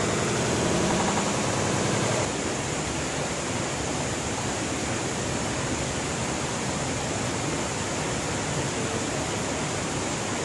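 Steady rushing of a stream's water near a waterfall, an even hiss, dropping slightly in level about two seconds in.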